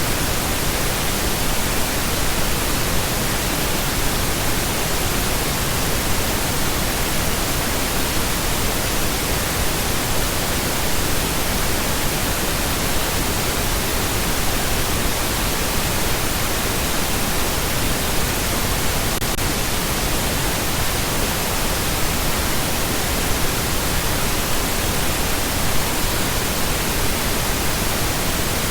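Steady, unchanging pink noise: an even hiss spread across all pitches, without tones, clicks or breaks.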